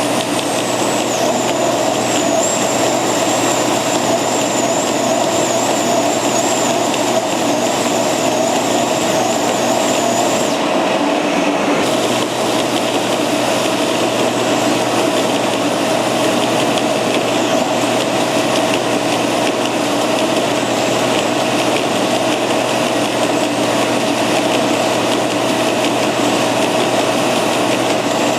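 Edge sander running steadily, its abrasive belt sanding the edge of a solid maple round tabletop turned against it on a centre-point jig. A high wavering whine rides over the motor's steady hum. It drops out for a moment about ten seconds in, then comes back with a pulsing waver.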